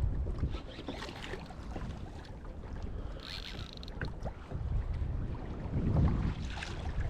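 Wind gusting on the microphone around a fishing kayak on the sea, with scattered small knocks and clicks. There is a brief hiss about three seconds in.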